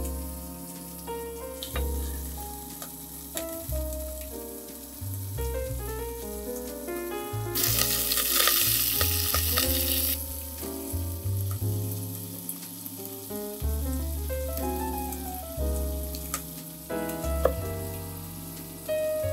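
Diced bacon and sausage slices sizzling as they fry in a stainless steel pot, a bright hiss for about two and a half seconds from about 7.5 s in. Background music with piano-like notes runs throughout, with a few knife taps on a wooden cutting board before and after the frying.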